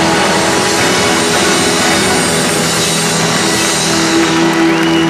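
Rock band playing live, a loud passage of held, sustained notes near the close of the song.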